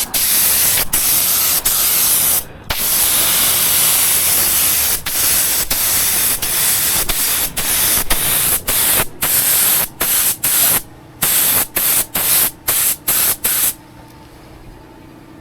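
Paint spray gun hissing as it lays the third and last coat of paint, the trigger let go briefly between passes, the breaks coming quicker in the second half. The spraying stops about a second and a half before the end.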